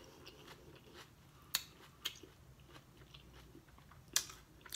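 Faint close-miked chewing of a taco, with three sharp, crunchy mouth clicks about one and a half, two and four seconds in.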